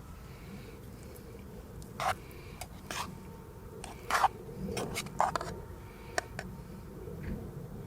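A few short scrapes and clicks, about eight, scattered over a low steady background hum.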